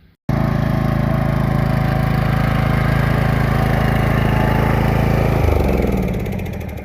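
Riding lawnmower engine running steadily under load, starting abruptly. About five and a half seconds in it drops in pitch as it slows, and the sound fades.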